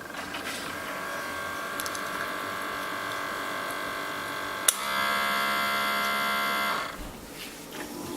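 Keurig coffee maker's pump humming as it brews, then a click and a louder buzz for about two seconds that cuts off suddenly as the brew cycle ends.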